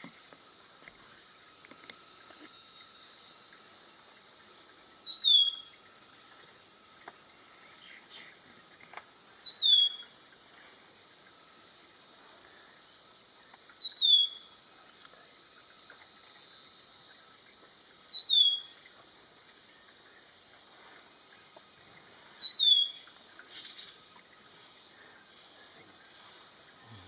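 Black-capped babbler calling: a clear, short falling whistle repeated five times, about every four seconds, given while it preens after bathing. A steady high insect drone runs underneath.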